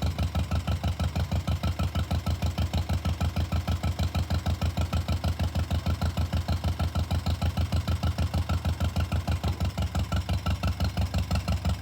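1948 John Deere M tractor's two-cylinder engine running steadily at low speed, a fast even putt-putt of exhaust beats that holds the same pace throughout.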